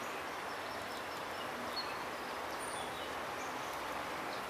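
Steady outdoor background noise with a few faint, brief bird chirps scattered through it.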